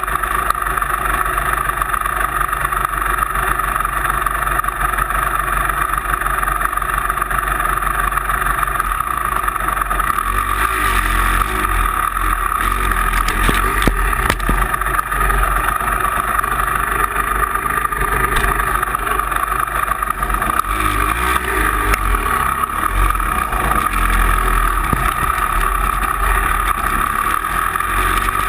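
Motor vehicle engine running steadily while driving. A low rumble grows heavier about ten seconds in.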